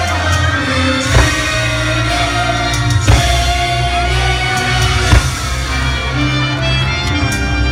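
Fireworks show music playing loud, with three sharp firework bangs about two seconds apart over it.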